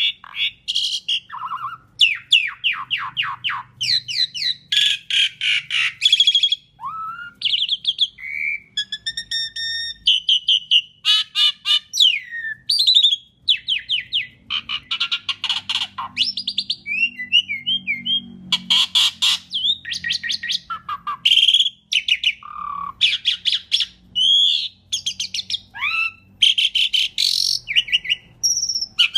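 Asian pied starling (jalak suren) in full song: a long, unbroken run of rapid rattling trills, chatters and short clear whistles in quick succession.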